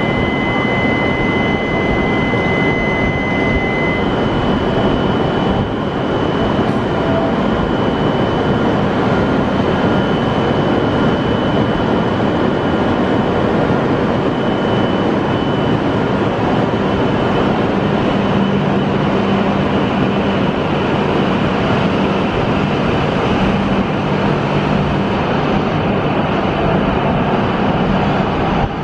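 Shinkansen train noise: a loud, steady rush with a thin high whine over the first few seconds and a low hum coming in during the second half.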